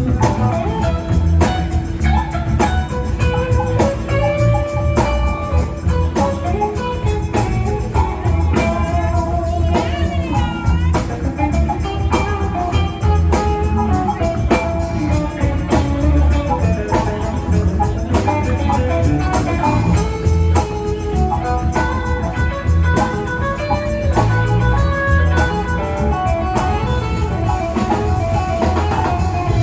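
Live rock band playing an instrumental jam: electric guitar lines over drum kit, bass and tambourine.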